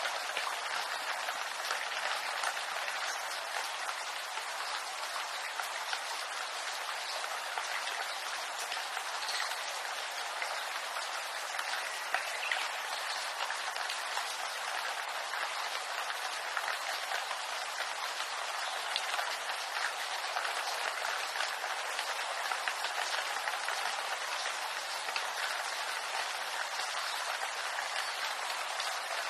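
Steady rain falling on bamboo leaves: an even hiss made of many small drop ticks, with little low rumble.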